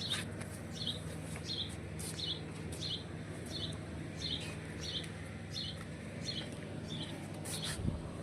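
A bird's short chirp repeated at an even pace, about every half second, over a steady low hum.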